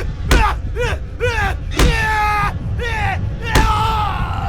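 Repeated heavy bangs over a steady low rumble, with high wailing cries rising and falling between them.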